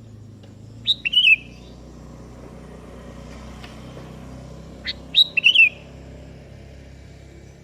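Sooty-headed bulbul (kutilang) calling twice, about four seconds apart. Each call is a quick cluster of short, bright notes sliding downward, over a faint low background rumble.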